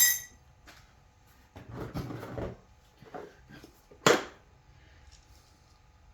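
Metal parts and tools being handled on a workbench. There is a ringing metallic clink at the start, a moment of shuffling and scraping, and then a single sharp knock about four seconds in.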